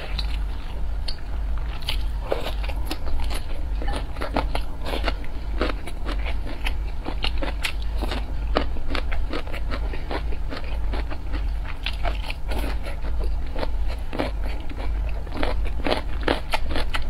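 Close-miked chewing of crunchy stir-fried cabbage and cauliflower with rice, many crisp crunches in quick succession over a steady low hum.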